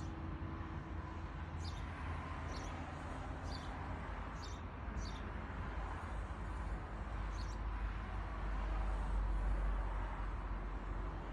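A bird chirping: about six short, high chirps at uneven intervals, the last one several seconds after the others, over a steady low background rumble.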